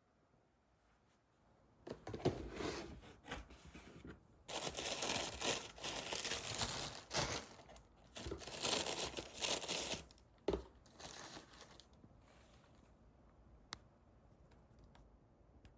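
Wrapping material being torn and crumpled in a run of rustling bursts that starts about two seconds in and stops near the twelve-second mark.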